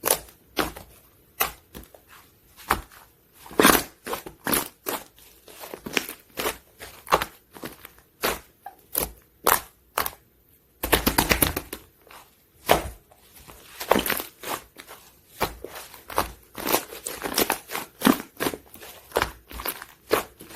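Hands squishing and poking soft, runny slime: an irregular string of sharp, wet clicks and pops, with a quick rapid run of them about halfway through.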